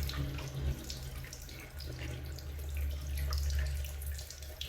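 Running water from a hose rinsing planting medium until the water runs clean, with small splashes and trickles over a steady low hum.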